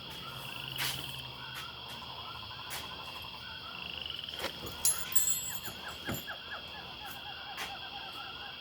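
A chorus of frogs calling over and over, with a steady high trill running underneath. A few sharp knocks sound about five seconds in.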